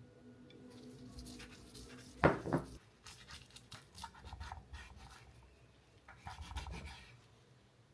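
Food-preparation handling noises: rubbing and scraping with scattered light clicks, and one sharp knock a little over two seconds in.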